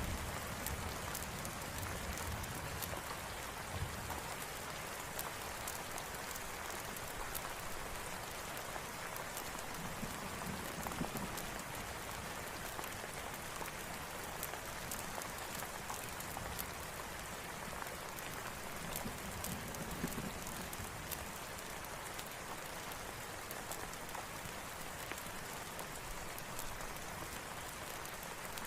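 Steady rain falling, with scattered sharp ticks throughout. A low rumble of thunder dies away over the first few seconds.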